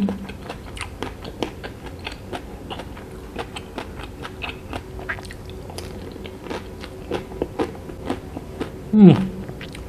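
Close-up chewing and biting of a chocolate-coated vanilla ice cream bar with small rice crisps in the coating, with many small crunchy clicks throughout. Near the end comes one short, loud sound that falls steeply in pitch.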